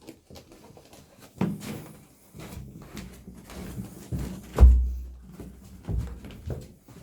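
Ferrets scrabbling and tumbling on stairs: a run of knocks and thumps with scratching in between, the heaviest low thud about four and a half seconds in.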